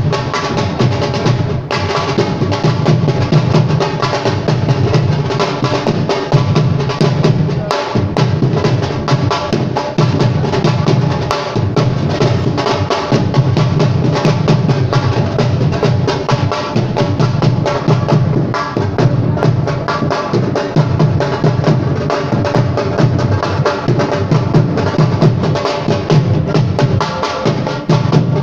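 Drums played continuously in a fast, dense rhythm, with deep drum strokes underneath and steady sustained tones above them.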